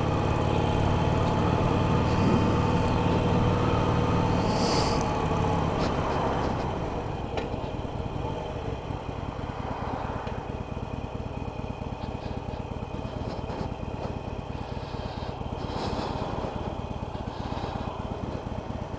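Harley-Davidson 883 Iron's air-cooled V-twin with Screamin' Eagle slip-on mufflers, running as the bike rolls along. About six seconds in it slows and settles to a steady idle. Heard through a helmet Bluetooth headset microphone.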